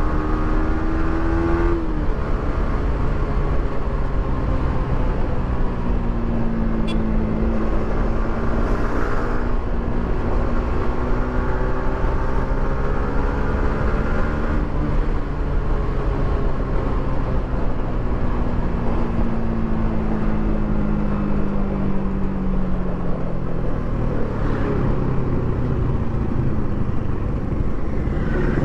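Yamaha R15 V3's single-cylinder engine through its stock exhaust, riding under way with wind noise on the microphone. The engine pitch climbs and then drops sharply about two seconds in, as at a gear change, holds fairly steady, and later falls away gradually as the bike slows.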